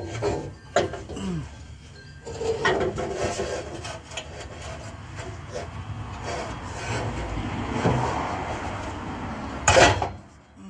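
Exhaust pipe being worked loose under a car: metal scraping and rubbing, with a few knocks at the start and one loud clank near the end.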